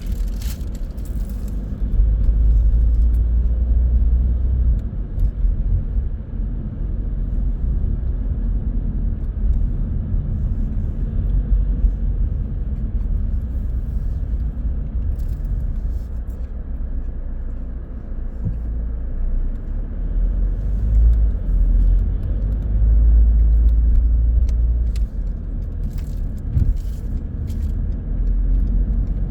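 Car driving along a road, heard from inside: a steady low rumble of engine and tyres, with a few faint ticks in the second half.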